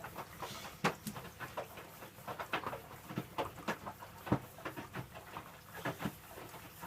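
Electrolux W455H commercial washing machine in the prewash stage of its cycle, giving a run of irregular soft clicks, knocks and splashes, several a second, over a low hiss.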